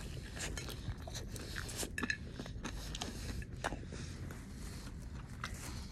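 Someone biting into and chewing a breaded chicken tender: faint, irregular crunches and mouth clicks.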